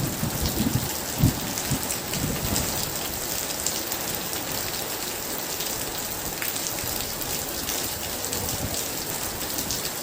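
Very heavy rain falling steadily, with the low rumble of thunder dying away over the first two or three seconds.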